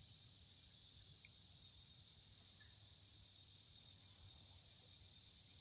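Steady, high-pitched chorus of insects such as crickets, faint and unbroken, with a light low rumble beneath it.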